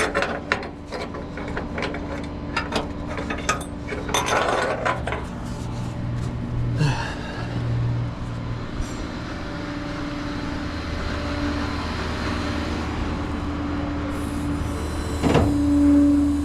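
Tow truck running steadily, with a scatter of clicks and knocks in the first few seconds.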